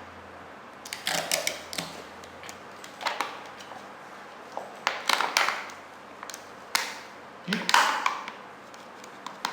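Adhesive tape being pulled off the roll in short rasping rips, about five times, while taping up a plastic cup.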